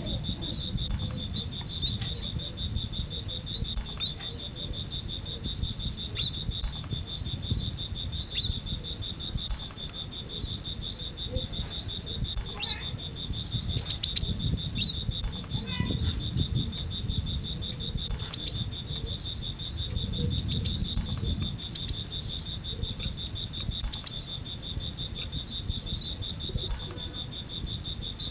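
Cinereous tit (gelatik batu) calling: short, sharp, high notes, often in quick pairs, repeated every second or two. A steady high insect buzz runs underneath.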